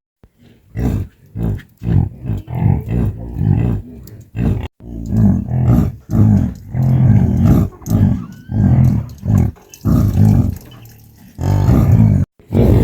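An animal, likely livestock, making a string of short, low calls, about one or two a second, with a brief quieter pause near the end.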